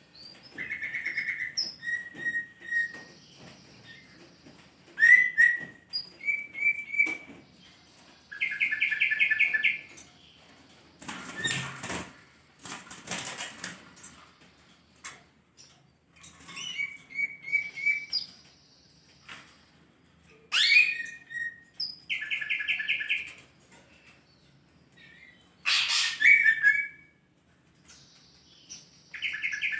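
Green leafbird (cucak ijo) calling: a string of short clear whistles and buzzy, rapidly pulsed notes, repeated in phrases. Around the middle comes a noisy rustling burst of wing flapping.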